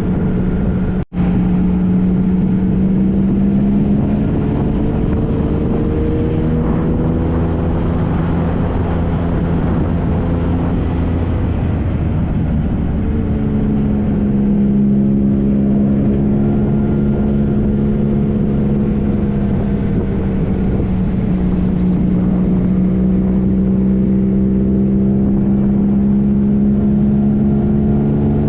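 2013 Triumph Trophy SE's 1215 cc inline-three engine running at road speed, its pitch sagging and rising again a few times as the throttle changes, over a steady rush of wind and road noise. The sound cuts out for an instant about a second in.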